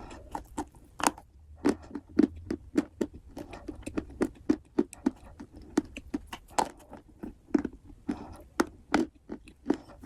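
Close-up chewing of wet clay taken in big bites: a steady run of short, sharp mouth smacks, about two or three a second.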